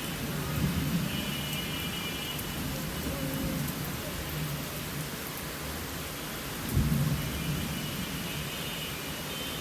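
Steady rain with low rumbles of thunder; the loudest rumble comes about seven seconds in.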